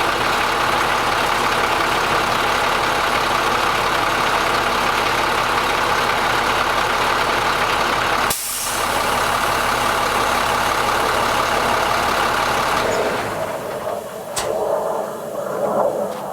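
Truck engine running steadily, driving the crane's hydraulics. There is a brief break about eight seconds in. Near the end the engine sound drops away and a sharp click follows.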